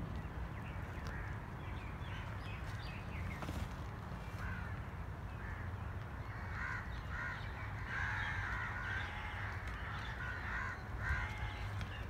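Birds calling, with a run of short calls repeated in quick groups from about halfway through, over a steady low background noise.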